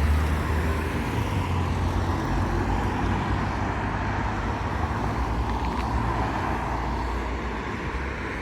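A motor vehicle's engine running steadily, a low rumble.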